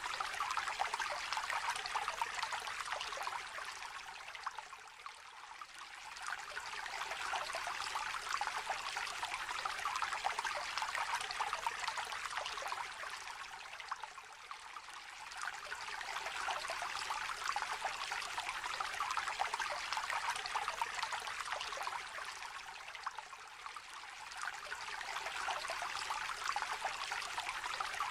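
A small, shallow river trickling and babbling over stones. The flow sound is steady but eases off briefly three times, about nine seconds apart.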